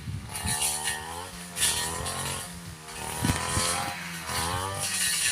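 Stihl two-stroke brush cutter engine running, its pitch rising and falling about three times as the throttle is worked.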